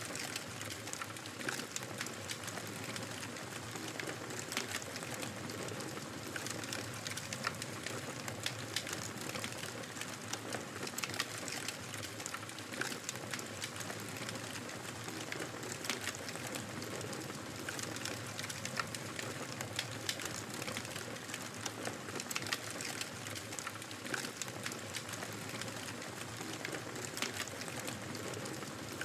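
Wood fire crackling steadily in a fireplace, with frequent small sharp pops over a constant soft hiss of burning.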